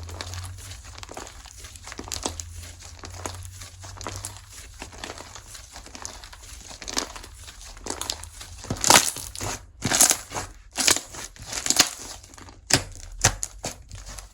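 Slime being squeezed, stretched and pressed by hand, making dense crinkly crackling and popping sounds that grow louder and burstier in the second half.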